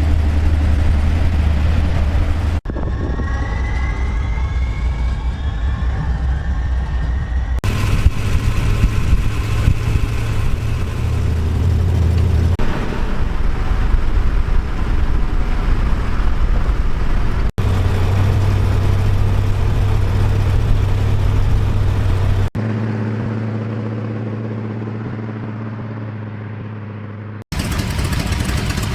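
Car engine running in several short clips cut together: steady running with a low hum, a stretch where the pitch rises as it revs, and one clip that fades steadily away.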